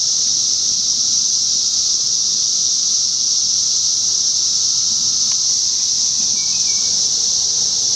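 Chorus of 17-year periodical cicadas: a loud, steady, high-pitched buzzing drone that never breaks.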